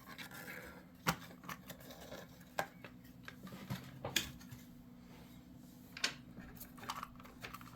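Scattered light clicks and soft rustles of a plastic packaging clamp and model railcar being handled, over a faint steady hum.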